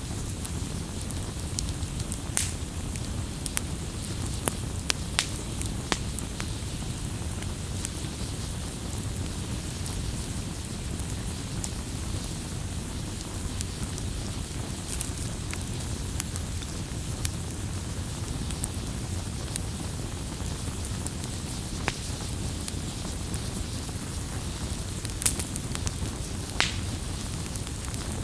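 Campfire burning: a steady low rumble and hiss of flames with irregular sharp crackles and pops of burning wood, a few louder pops near the end.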